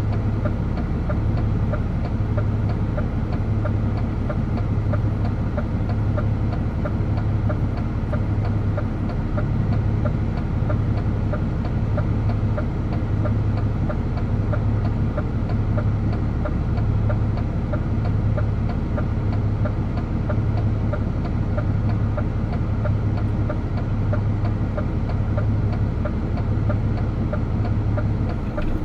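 DAF truck's diesel engine running steadily while driving, a continuous low drone with a deep throb that pulses a little less than once a second.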